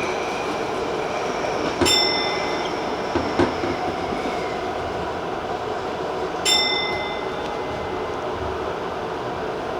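Tobu TJ Liner train rolling along on the approach to its terminus, a steady running noise. Two sharp metallic clanks, about 2 s in and again about 6.5 s in, each ring briefly, with a few lighter knocks between them.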